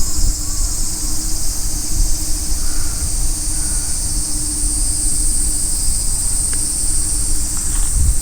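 A steady, high-pitched insect chorus, with gusty wind rumbling on the microphone underneath.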